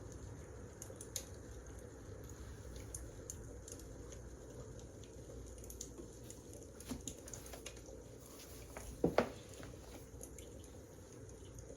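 Wood fire crackling: scattered small pops over a low steady rumble, with a louder pair of pops about nine seconds in.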